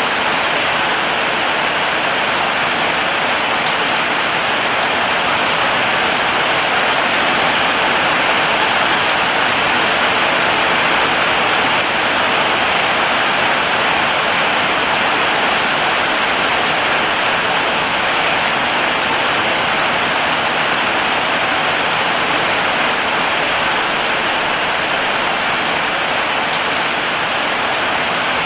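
Steady heavy rain falling, an even, unbroken hiss of drops that stays at the same level throughout.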